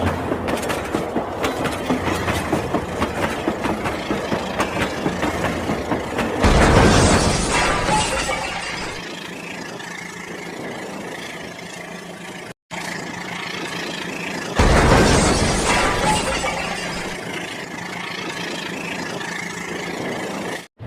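Train running: a quick, even clickety-clack rhythm, then two loud hissing surges that start suddenly about six and a half and fourteen and a half seconds in and slowly fade. The sound cuts out for an instant about two thirds of the way through.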